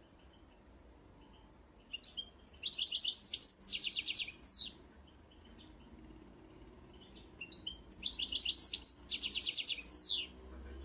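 A songbird singing the same phrase twice, about five seconds apart: a few opening notes, runs of fast trills, then a quick falling sweep at the end. Fainter bird calls sound between the songs.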